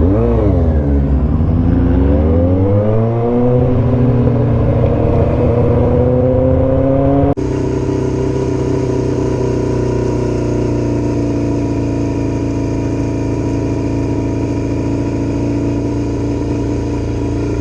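Motorcycle engine under way: its pitch dips and climbs right at the start, then rises steadily as it accelerates. About seven seconds in, the sound cuts off suddenly into a steady, even engine tone.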